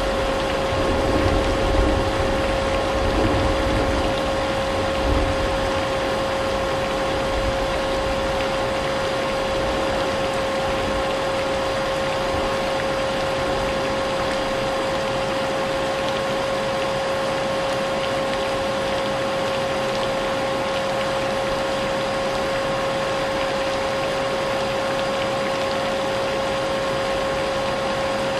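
Vacuum cleaner running steadily, its motor giving a constant whine, mixed with the hiss of rain. Low rumbles of thunder sound in the first five seconds.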